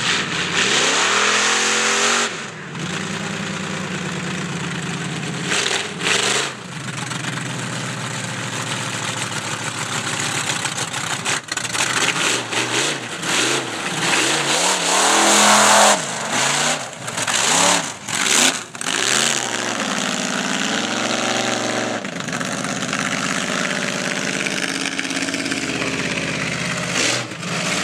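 Monster truck engine revving in repeated bursts, the pitch sweeping up and falling back, between stretches of steady running.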